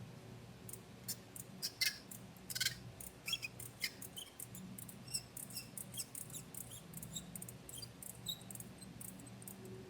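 Irregular sharp metallic clicks and short squeaks as a screw extractor is worked to back out a broken exhaust manifold bolt. The clicks start about a second in and are loudest around two to three seconds in.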